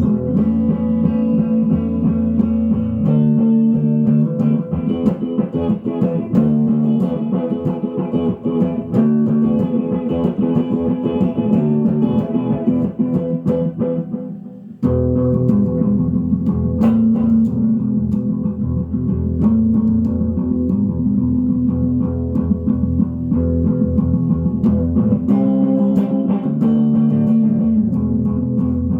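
Electric guitar played through an Ecco-Fonic tube tape echo unit. The playing breaks off for a moment about halfway through, then starts again.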